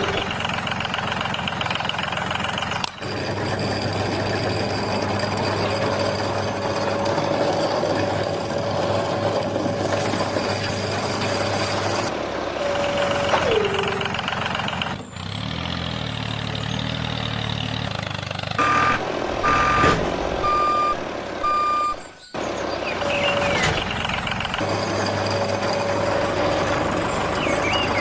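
Small motor of a toy mini tractor running with a steady whine that winds down in pitch twice, cutting off abruptly a few times. A little past halfway a run of short, evenly spaced electronic beeps like a reversing alarm sounds over it.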